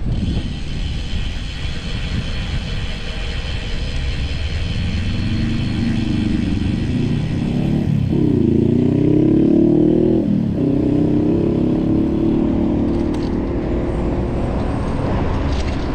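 Wind rumbling on the microphone while cycling, with a car accelerating close by from about five seconds in: its engine pitch climbs and drops back twice, as at gear changes, then fades.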